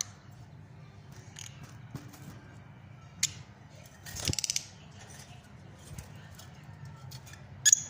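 Fischer's lovebirds giving short, shrill chirps: one about three seconds in, a quick rattling chatter of rapid pulses a second later, and a sharp chirp near the end, over a low steady hum.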